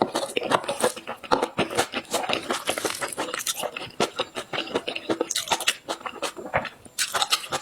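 Close-miked eating: a person biting and chewing a soft pastry, a quick irregular run of wet smacks and small crackles.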